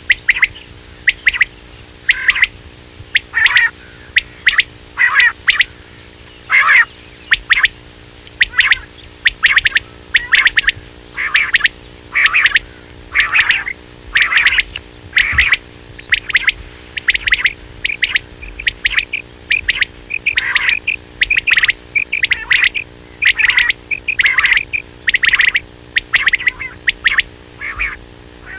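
Quail calling over and over: short, sharp high notes in quick clusters, repeating about once a second without a break, with a faint steady hum underneath.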